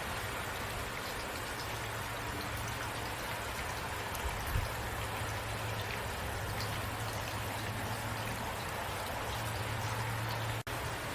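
Steady rain falling, an even hiss of many drops, over a low steady rumble. The sound cuts out for an instant near the end.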